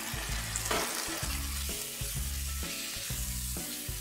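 Gulai spice paste sizzling steadily as it sautés in oil in a wok, over background music.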